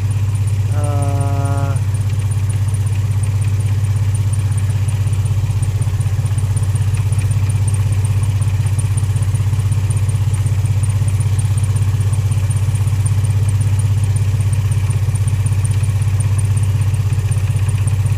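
2003 Infiniti G35's 3.5-litre V6 idling steadily, with a random misfire (P0300) logged and the engine suspected of misfiring.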